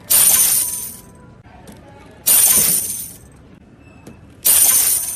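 Three identical bright crashes, evenly spaced about two seconds apart, each starting sharply and fading out within about a second.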